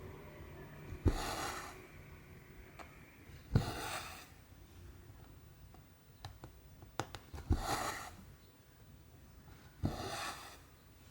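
Cotton embroidery thread pulled through 14-count cross-stitch canvas, four times: each stitch starts with a sharp tap of the needle, then a short rasping swish as the thread draws through the fabric. A few faint ticks come in between.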